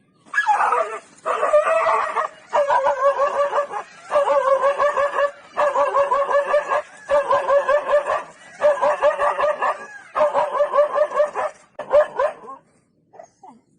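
A dog giving a run of about nine drawn-out, wavering cries, each about a second long, with short pauses between them.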